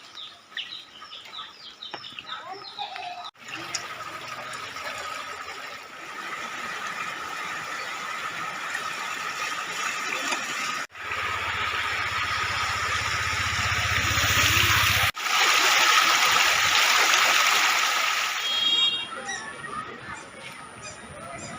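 Flash-flood water from a hill torrent rushing and flowing: a steady noisy rush that grows louder toward the middle and fades near the end, broken by a few sudden cuts.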